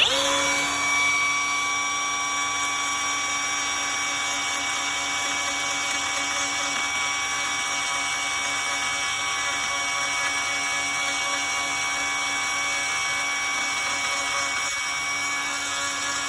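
Handheld power grinding tool switching on and running at a steady high speed, grinding out delaminated fiberglass.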